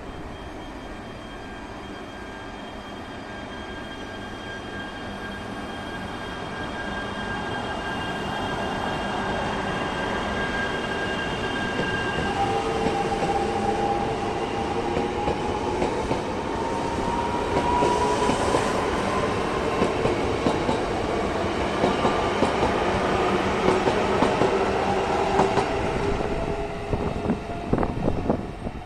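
Yamagata Shinkansen Tsubasa train pulling away from a station, its motors whining in tones that climb in pitch as it gathers speed and grows louder. Near the end the wheels clack over rail joints.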